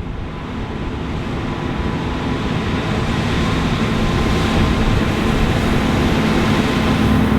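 John Deere S780 combine with a Shelbourne Reynolds stripper header harvesting: a steady engine and machinery drone with a thin, steady whine, growing gradually louder as the machine draws closer.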